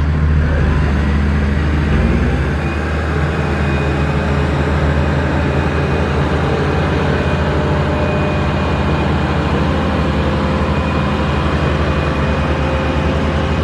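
Heavy diesel engine of a road-construction machine running steadily, its note shifting slightly about two seconds in.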